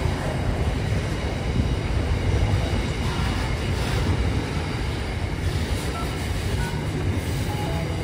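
Container freight train wagons, many of them empty container flat wagons, rolling past on the track with a steady low rumble of wheels on rail.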